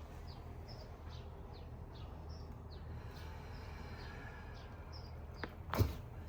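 A small bird chirping over and over in the background, short high downward chirps about twice a second, over a steady low hum. Near the end comes a faint click and then one sharp thump.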